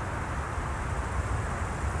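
Three-engined jet airliner's engines giving a steady, even rumble, heavy in the low end.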